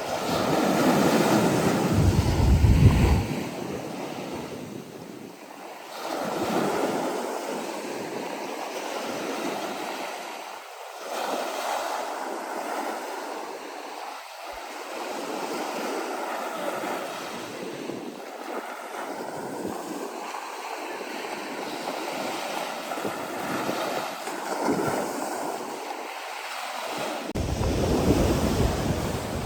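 Sea waves washing ashore, the surf swelling and fading every few seconds. Wind buffets the microphone in strong gusts about two seconds in and again near the end.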